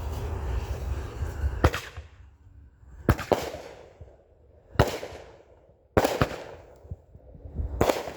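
Consumer artillery-shell fireworks going off: a sharp bang about every one and a half seconds, each trailing away in crackle and echo.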